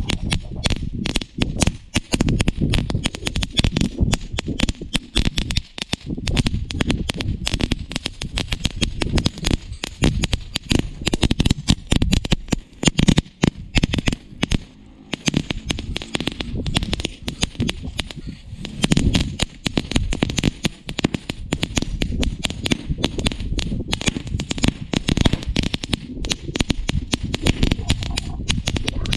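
Crackling firework fountain burning, with a dense, continuous stream of rapid crackles and snaps.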